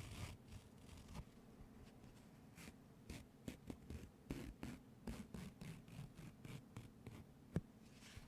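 Soft, irregular taps and clicks, a few a second, with one sharper click near the end.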